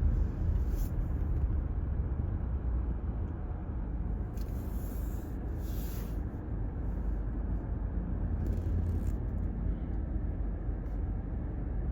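Car road noise heard from inside a moving car: a steady low rumble of engine and tyres, with a few brief hissing swells.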